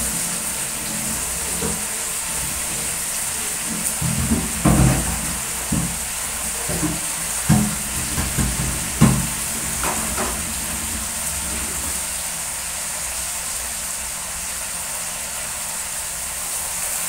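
String beans, fried sardines and sweet potato tops sizzling in plenty of oil in a wok over a gas flame: a steady, high frying hiss. A few dull knocks come between about four and ten seconds in.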